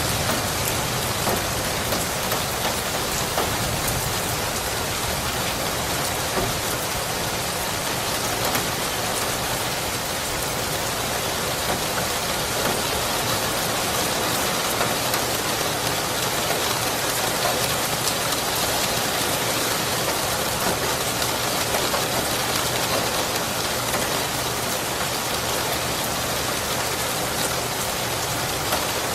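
Steady heavy rain falling, a dense even hiss with fine patter of drops hitting a surface.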